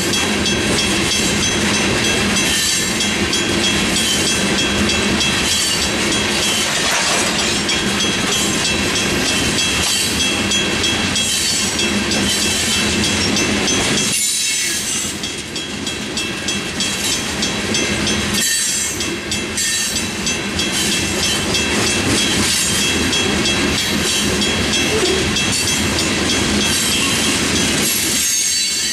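Loaded rock-train hopper cars rolling past over the crossing, wheels clacking over the rails. The crossing's Western Cullen Hayes bells, one mechanical and one electronic, ring steadily throughout.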